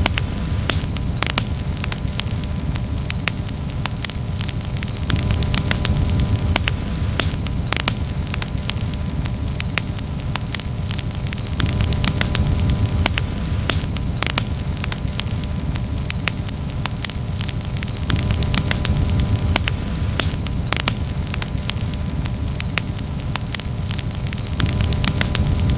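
Campfire crackling: a dense run of sharp pops and snaps over a steady low rumble that swells and eases every few seconds.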